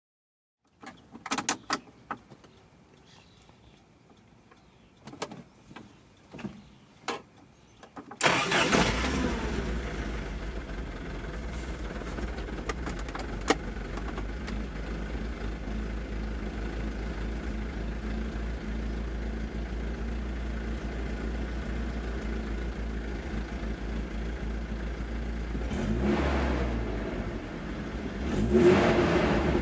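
A few clicks and knocks, then the Triumph TR7's 2.0-litre slant-four engine starts about eight seconds in and settles into a steady idle. It is revved briefly twice near the end.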